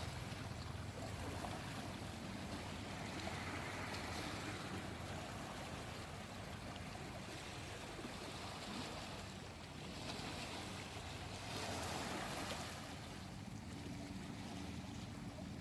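Small sea waves washing in, swelling and easing several times, over a steady low hum; a further low tone joins near the end.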